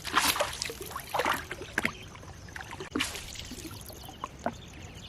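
Water splashing and dripping in short bursts, with scattered knocks against a small boat, as a wet gill net is hauled in from the river.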